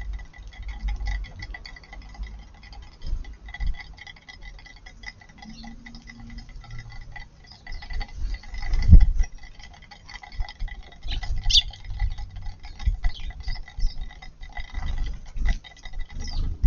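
Eurasian tree sparrows pecking at food, with many small ticks and clicks, among dull low thumps; the loudest thump comes about nine seconds in.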